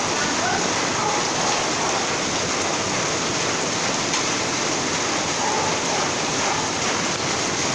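Rain falling steadily, an even hiss with no distinct drops or other events.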